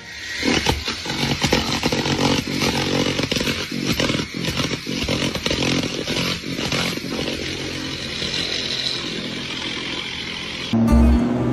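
A small engine running hard, with many knocks and rattles over it; it cuts off suddenly near the end.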